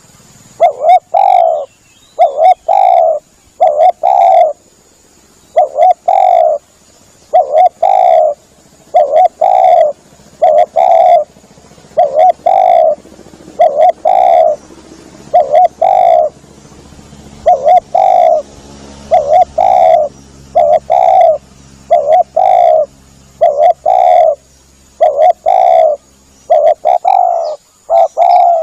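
Spotted dove (tekukur) cooing over and over as a lure call: loud, mellow coos in quick phrases, about one to two a second, with short pauses between the phrases.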